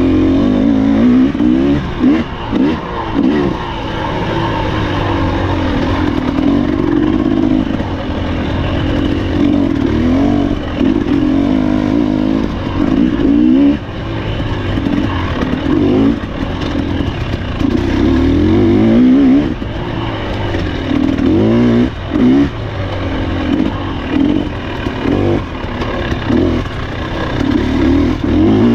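Husqvarna TE300 two-stroke enduro motorcycle engine, heard from the rider's helmet camera, revving hard and rising and falling in pitch as the throttle is opened and chopped over and over. Short dips in the engine sound come every few seconds, with clatter from the bike over rough, loose ground.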